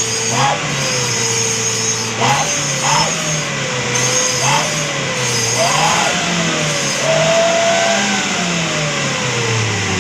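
Petrol car engine revved up and down over and over, about six times with a longer last rev, through an unfinished stainless-steel 'wolf sound' exhaust. The exhaust whistles a howl-like tone that glides up and down with each rev.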